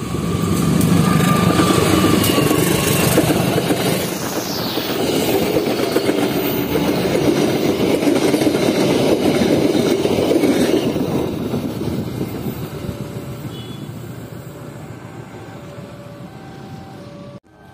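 A passenger train hauled by a diesel-electric locomotive passing through the station: engine and wheel-on-rail clatter rise to loud about half a second in and stay loud as the coaches go by. The sound then fades away over the last several seconds as the train recedes.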